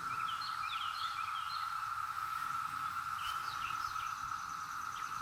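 A loud chorus of periodical cicadas makes a steady drone at one pitch. Scattered bird chirps sound over it.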